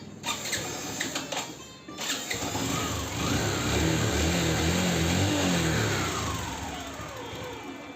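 Suzuki Hayate motorcycle's small single-cylinder four-stroke engine running, now started by its repaired starter motor. After a few clicks it is revved from about two and a half seconds in, and the revs drop back near the end.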